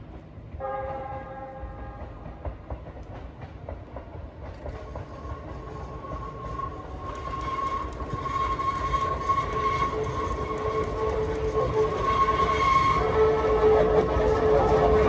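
An electric train approaching round a curve: a short horn blast about half a second in, then the rumble of the train growing steadily louder, with a steady high whine from about five seconds in and a lower tone joining near the end.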